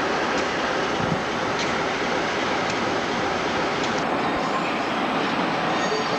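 A train running on the line, a steady noise with a few faint clicks scattered through it.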